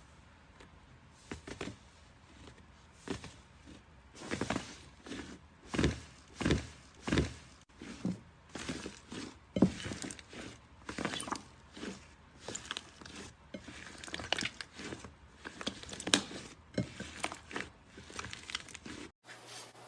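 Slime being kneaded and squeezed by hand, giving irregular wet squelches and pops about once or twice a second, louder from a few seconds in.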